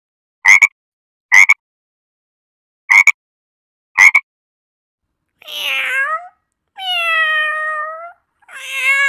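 A few short, sharp squawk-like calls about a second apart, then a domestic cat meowing three times in long, drawn-out, slightly falling meows.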